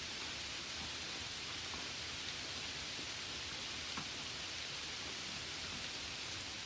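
Steady rushing hiss of a river running close by, with a couple of faint ticks.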